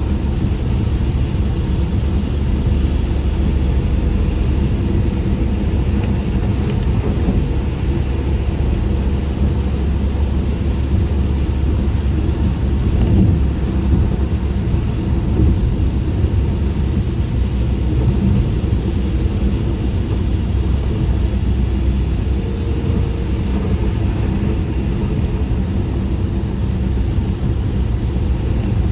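Steady low rumble of a car driving on wet roads in the rain, heard inside the closed cabin: tyre and road noise with rain on the car.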